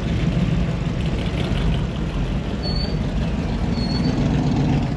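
Classic car and hot rod engines running steadily as cars drive slowly out of the show, with a few brief high squeaks over the rumble.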